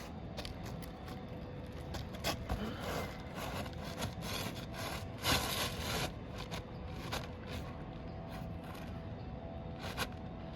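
Asphalt roof shingles scraping and rubbing against each other as they are worked loose and slid under the courses above, with scattered clicks and one longer, louder scrape about five seconds in.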